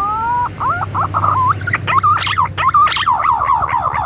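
Green pigeon (punai) calling: a drawn-out rising whistle, then wavering notes, then a quick run of falling whistled notes, about three to four a second.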